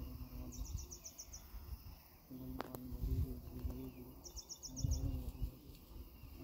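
A bird calling twice, each call a quick run of about seven high notes, over low rumbling outdoor noise. A low steady hum runs through the middle, with one sharp tick.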